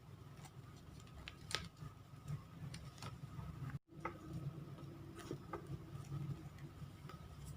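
Faint crackles and ticks of origami paper being handled and creased, over a steady low hum. The sound cuts out for a moment about halfway.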